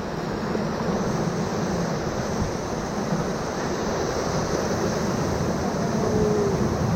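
Steady rush of river whitewater around a raft running a rapid.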